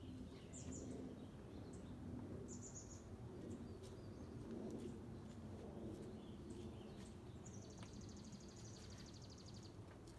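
Faint birds chirping over a low, steady outdoor background rumble: a few short chirps in the first three seconds, then a fast, even trill lasting about two seconds near the end.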